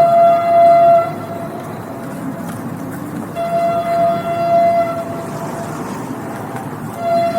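Train horn sounding in long steady blasts over the rumble of a passing train. One blast ends about a second in, another sounds for about a second and a half around the middle, and a third starts near the end.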